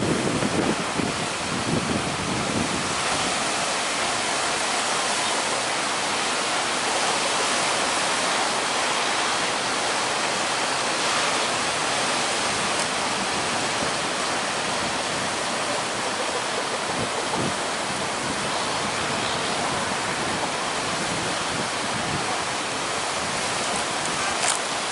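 Steady rushing noise of heavy surf and strong wind, driven by monsoon weather.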